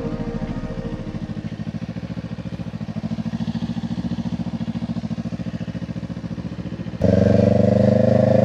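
Kawasaki Ninja 500's parallel-twin engine running steadily at low revs. About seven seconds in the throttle opens, the engine gets much louder and its revs climb as the bike accelerates.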